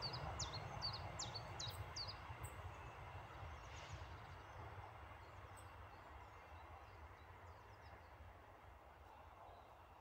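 Passenger train's rumble fading steadily away after it has passed the level crossing. A bird calls a quick run of about six sharp chirps in the first two seconds.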